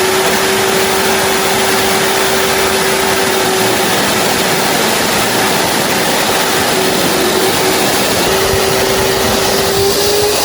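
Industrial vacuum cleaner running: a loud, steady rush of air with a constant motor whine, the whine rising slightly near the end.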